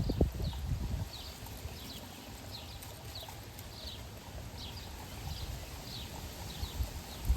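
A small bird chirping over and over, short high downward notes about twice a second. During the first second there is a louder low knocking rumble.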